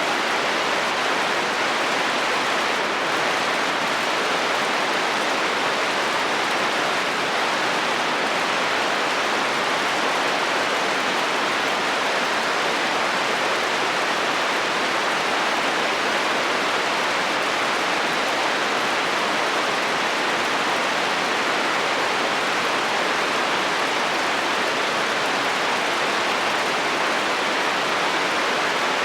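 Heavy rain falling steadily on a metal roof, an even, unbroken hiss with no thunder.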